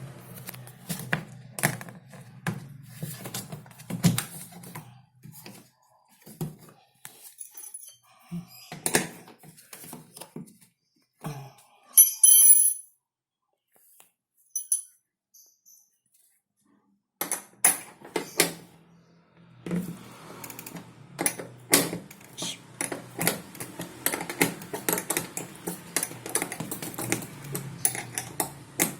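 Irregular clicks, taps and metal clatter of hand work with a wrench on a washing machine. A loud short rattle comes about twelve seconds in, followed by a few seconds of near silence.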